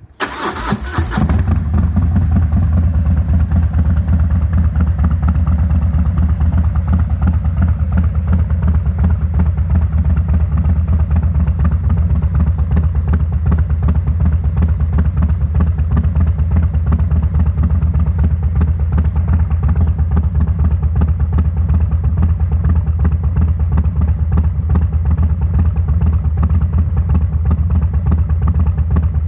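Harley-Davidson Milwaukee-Eight 114 V-twin with an aftermarket high-lift cam, started right at the beginning with a short loud burst, then idling steadily through the exhaust with an even, deep pulse.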